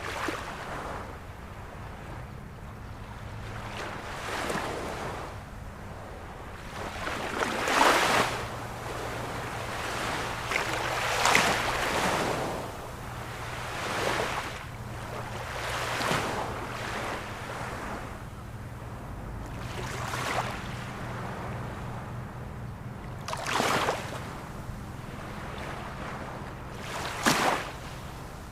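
Ocean waves breaking and washing in over a steady wash of surf, with a fresh surge every two to four seconds. A faint steady low hum runs underneath.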